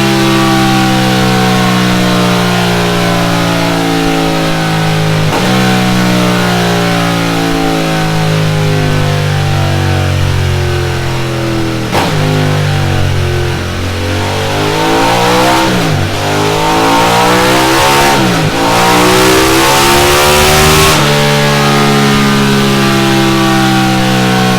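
Ducati Monster 1200's L-twin engine running hard on a dyno through a Delkevic X-Oval titanium exhaust. The exhaust note climbs in pitch, then drops sharply with a short click at each upshift, four times, before settling into a steadier run near the end.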